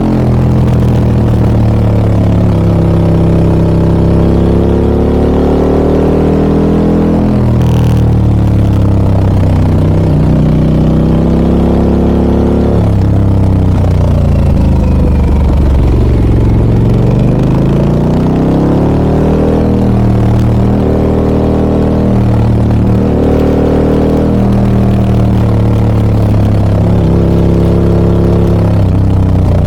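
Harley-Davidson Pan America 1250 Special's V-twin engine, breathing through a Scorpion aftermarket exhaust, on the move. The engine note climbs and drops repeatedly with throttle and gear changes, including one deeper fall and pick-up near the middle.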